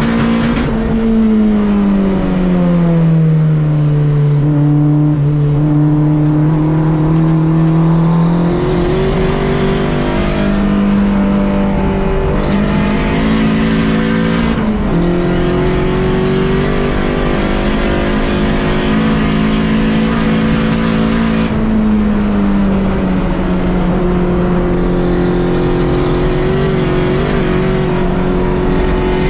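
Volkswagen track car's engine running hard on a road-course lap. Its pitch falls over the first few seconds as the car slows, then steps up and down with gear changes and throttle.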